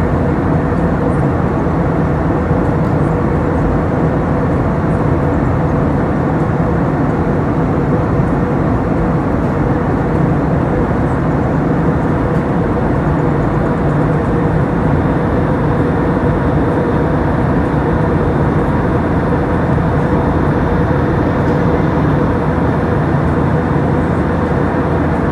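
Steady cabin noise of an Airbus A321 in climbing flight: the even drone of the jet engines and airflow past the fuselage, with a faint steady hum underneath.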